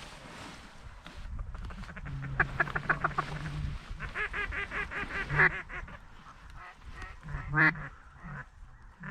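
Mallard quacking in fast, evenly paced runs of loud quacks, several runs a second or two apart.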